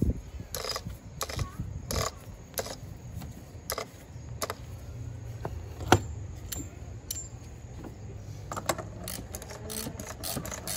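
Irregular metallic clicks and clinks of tools and parts being handled while an engine's cartridge oil filter is swapped, with one sharper knock about six seconds in.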